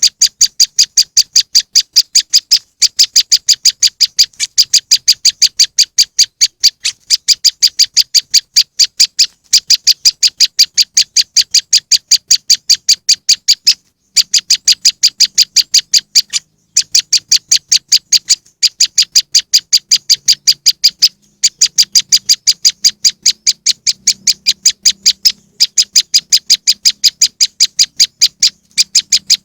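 Loud bird-lure recording of a prenjak lumut calling: a fast, steady run of short, sharp high chips, several a second. The run breaks off briefly every few seconds and starts again.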